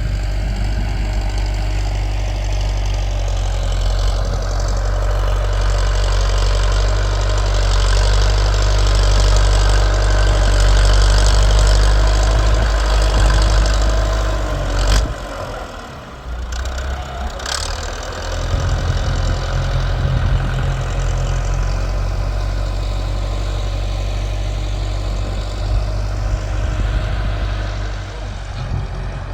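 Tractor engine running steadily with a deep drone. About halfway through it drops away briefly, with two sharp clicks, then carries on.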